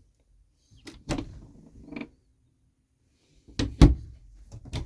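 A few sharp clacks and knocks from an RV's bedroom fittings being handled: about a second in, near two seconds, a louder cluster around four seconds in, and one more near the end.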